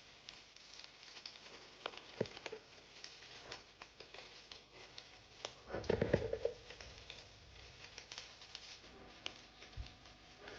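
Faint scattered clicks and light rustling, with one louder low thump and rustle about six seconds in.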